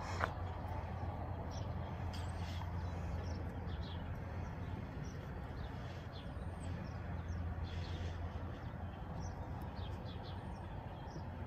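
Small birds chirping, short high chirps scattered here and there, over a steady low background rumble. One sharp click just after the start.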